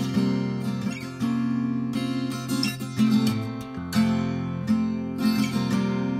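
Acoustic guitar played fingerstyle, a run of plucked notes in an instrumental intro with no singing yet.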